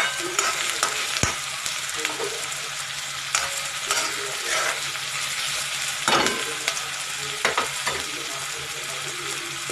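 Chopped onion and tomato sizzling in oil in a metal kadai, with a spoon stirring through it and scraping and knocking against the pan. The stirring stops near the end while the steady frying sizzle goes on.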